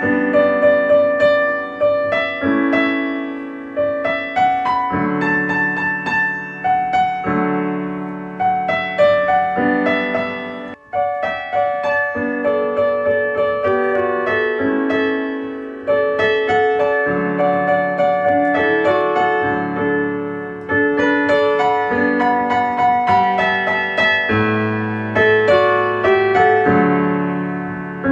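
Calm piano music: chords and single notes struck and left to ring and fade, with a short break about eleven seconds in.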